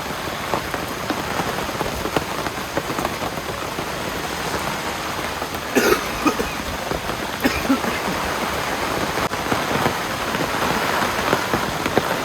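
Steady rain falling and pattering on surfaces. A short human sound like a cough breaks in about six seconds in.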